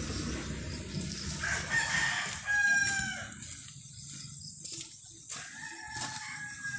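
A rooster crowing: a long call about two seconds in, sliding down in pitch at its end, and a fainter crow near the end. A low rumble fades away over the first three seconds.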